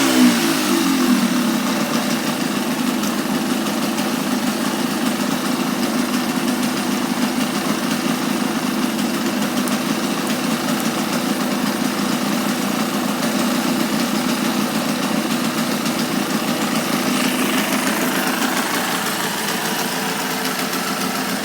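Yamaha DT200R two-stroke single-cylinder engine idling steadily, its revs dropping back to idle just at the start.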